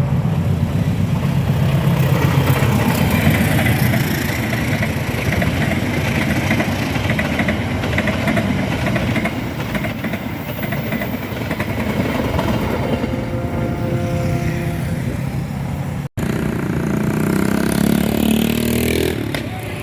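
Steady, loud engine noise of motor vehicles, with a short dropout about 16 seconds in, after which the sound changes.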